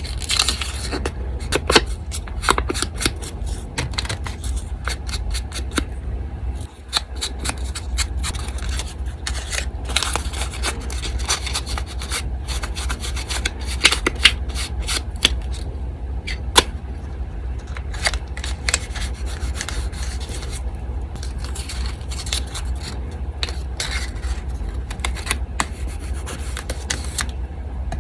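Paper being handled and rubbed against a desk, with many small scrapes and clicks, over the steady low hum of an electric fan.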